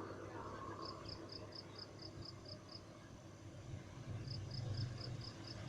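An insect chirping in runs of short, high, evenly spaced pulses, about four a second, with a pause of over a second between runs, over a low steady hum that swells about four seconds in.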